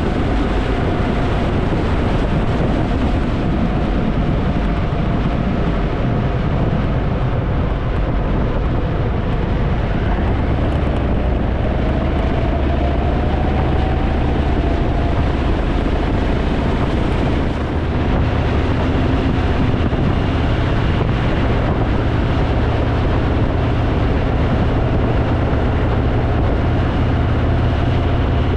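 Harley-Davidson motorcycle riding at speed: the engine runs steadily under wind rushing over the microphone, with a brief dip in loudness a little past halfway.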